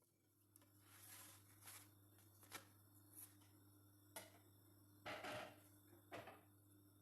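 Faint kitchen handling sounds: a string of soft knocks and rustles, the loudest about five seconds in, over a low steady hum.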